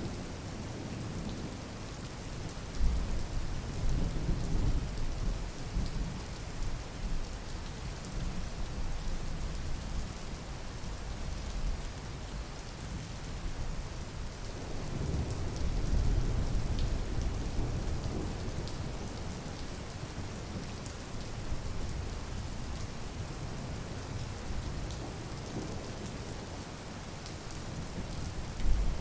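Steady rain falling, with low rumbling swells about three seconds in, midway through, and again just before the end.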